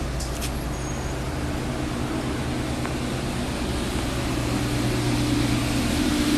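Steady mechanical hum with a rushing, fan-like noise, growing slightly louder toward the end.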